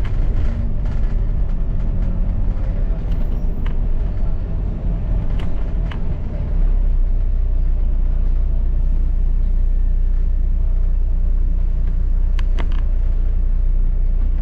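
Noise of a moving double-decker bus heard from on board: a steady low engine and road rumble with a few sharp clicks and rattles. The rumble grows louder about six and a half seconds in.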